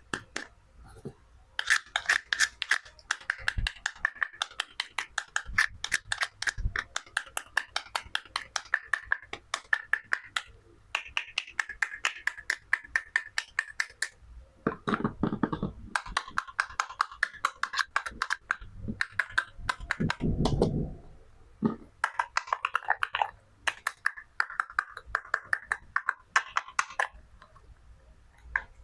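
Rapid runs of crisp clicks and taps from plastic toy fruit and vegetables being handled and cut, broken by a couple of longer scraping sounds.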